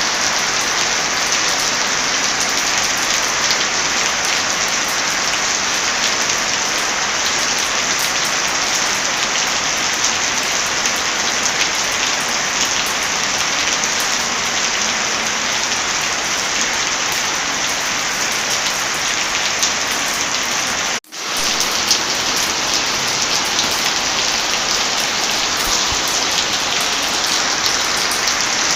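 Heavy rain falling steadily, with scattered sharp crackles from a wood fire mixed in. The sound cuts out for a split second about two-thirds of the way through, then resumes.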